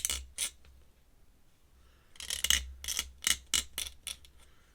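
Ink pen scratching on paper in short quick strokes: a few strokes at the start, a pause, then a rapid run of about a dozen strokes near the middle.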